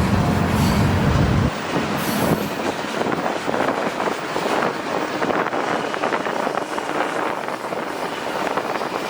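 Freight train cars rolling past, steel wheels on the rails making a dense rushing clatter with some wheel squeal. A heavy low rumble in the first second and a half cuts off suddenly.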